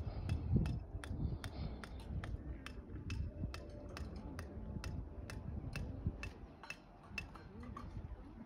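A quick series of sharp clicks or crackles, about three a second, over a low rumble.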